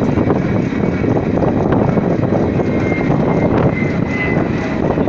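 Garib Rath Express train running, heard from on board: a loud, steady rumble and rattle of the moving coach, with a faint thin high whine about four seconds in.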